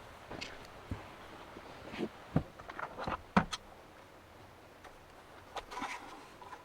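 Irregular knocks, clicks and rustles of things being handled and set down inside an SUV, with two sharper knocks in the middle, as bedding is laid out in the back.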